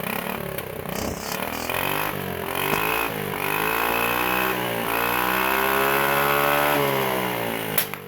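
Forza 250 scooter's single-cylinder engine revved in a few short blips, then held in a long rev that climbs, dips and climbs again before dropping off. Near the end, as the revs fall, a single sharp pop comes from the exhaust: a backfire.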